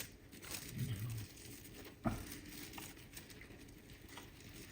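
Faint rustling as a cover is taken off a bowl of risen bread dough, with a single knock about two seconds in.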